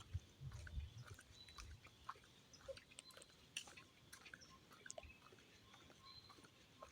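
Near silence: faint outdoor background with scattered soft clicks and crackles, a few brief thin high tones, and some low soft thumps in the first couple of seconds.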